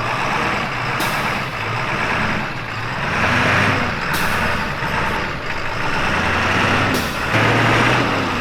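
Engine of an off-road 4x4 SUV revving up and down as it crawls up a muddy rock obstacle, under a steady rushing noise. The sound changes abruptly every few seconds.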